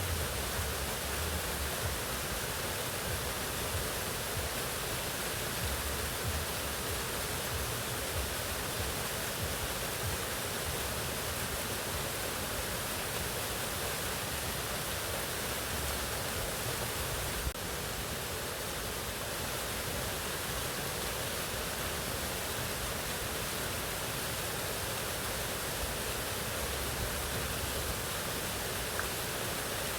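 Mountain waterfall rushing in a steady, unbroken roar of falling water.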